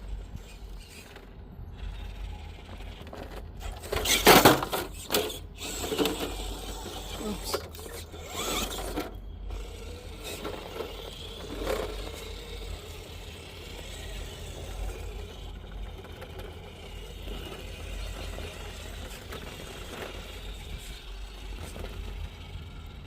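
Small electric RC rock crawler truck working over rock, its motor and geared drivetrain running. Between about four and nine seconds in there is a run of louder, sudden scraping and knocking noises; after that the crawling is steadier and quieter.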